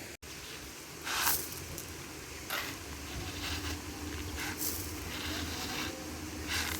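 A small shovel scraping and crunching into wet gravel and stones, about four short strokes a second or two apart.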